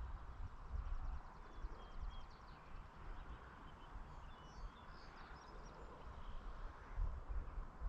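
Faint outdoor evening ambience: short, scattered bird chirps and a brief rapid rattle, over a low, gusting wind rumble on the microphone.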